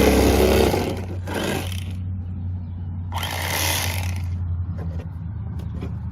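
Electric fillet knife running with a steady buzz, with three short bursts of hissing noise over it, the first near the start, one about a second and a half in, and a longer one about three seconds in.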